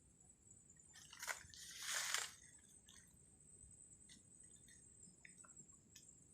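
Two short crunching rustles, about a second and two seconds in, then a few faint clicks, over a faint steady high-pitched whine.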